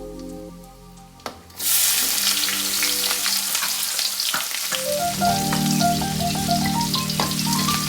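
Food frying in hot oil in a pan: a loud crackling sizzle starts suddenly about a second and a half in, right after a sharp click, and keeps going. Soft background music plays under it.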